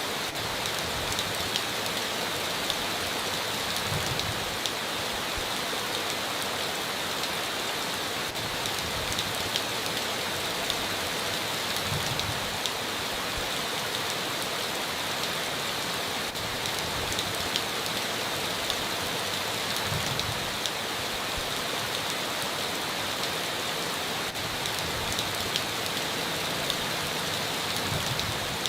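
Steady heavy rain on a tin roof: a dense, even hiss of rainfall with single drops ticking through it.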